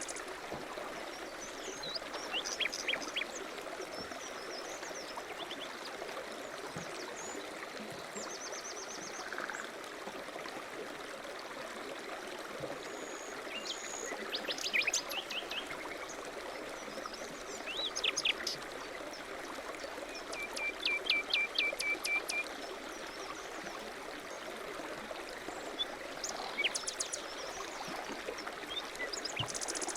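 Songbirds chirping and singing in short phrases and quick trills, every few seconds, over a steady rushing noise like running water.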